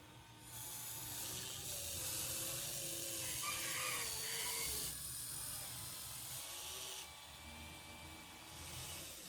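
Radio-controlled model construction vehicle running: a small electric motor whining with wavering pitch over a rushing, scraping hiss. It starts about half a second in and eases off around five and again around seven seconds in.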